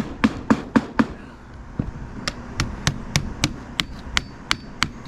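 Hammer blows in quick, even series: about four a second at first, a pause about a second in, then about three a second.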